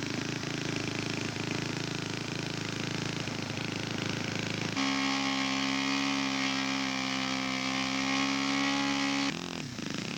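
Laser 150 model aircraft engine being test run in a scale Fokker Spin. It runs rough for about five seconds, then settles into a steady, even note. A second before the end the note drops away and the pitch wavers as it is throttled back.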